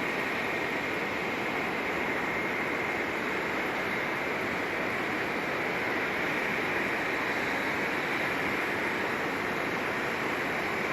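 Steady rushing jet noise of aircraft at an airport, with a faint high whine held on one pitch.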